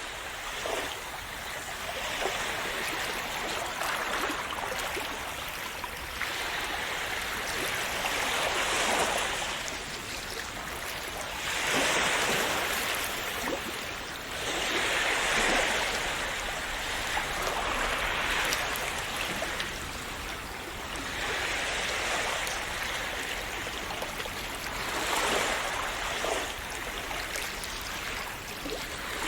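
Sea waves washing onto the shore, the hiss of the surf swelling and easing about every three to four seconds.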